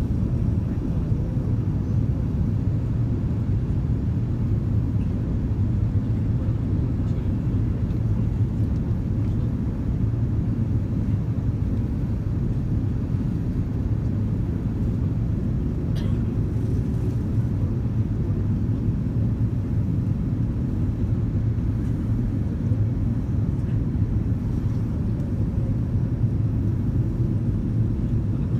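Steady low rumble of engine and airflow noise inside the cabin of an Airbus A330-202 airliner in flight, with a single brief click about halfway through.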